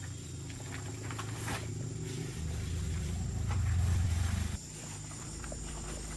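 Engine running steadily, louder from about two and a half seconds in until it drops back suddenly about four and a half seconds in, with scattered light clicks and knocks.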